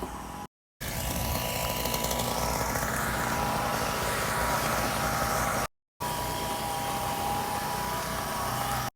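A small petrol engine running steadily at a distance, with a faint high steady whine, in clips broken by two short silent cuts.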